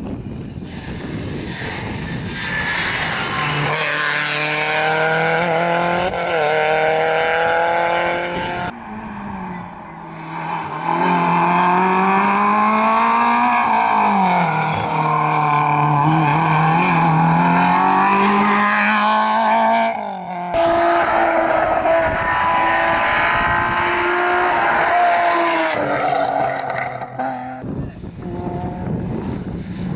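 Rally cars driven hard on a rally-sprint stage: each engine revs up, drops in pitch at gear changes and revs up again. The sound changes abruptly twice, about nine and twenty seconds in, as one car's run gives way to another's.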